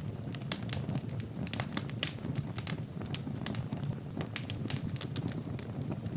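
Wood fire burning in a fireplace, with a steady low rush of flame and many irregular sharp crackles and pops, several a second.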